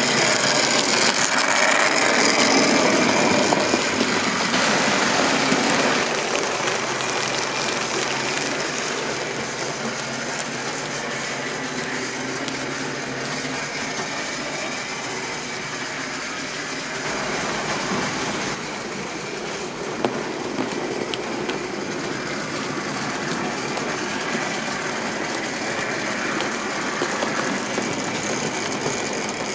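OO gauge model train running on the track, its electric motor whirring and wheels rolling on the rails, louder for the first few seconds and then steady.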